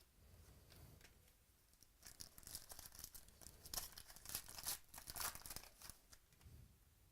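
Foil wrapper of a trading-card pack being torn open and crinkled: a run of crackling rips starting about two seconds in and lasting about four seconds.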